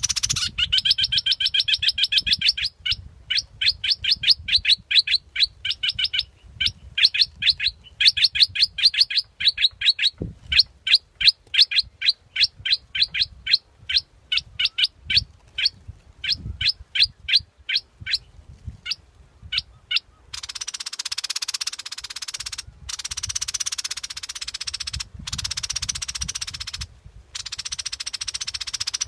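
Recorded lure call of a bulbul (นกปรอดดอกแตง, 'dok taeng' bulbul): a rapid run of short, sharp chirping notes, several a second, in long bursts with brief pauses. After about twenty seconds the notes give way to a steady hissing buzz broken by short dropouts.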